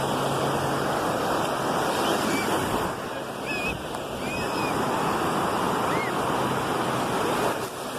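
Ocean surf washing onto the beach as a steady rushing noise, dipping briefly about three seconds in. A few faint short high chirps sound in the middle.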